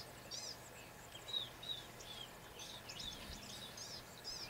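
Small birds chirping faintly: a run of short, high, arched notes repeating about twice a second, with a few lower notes mixed in, over a soft background hiss.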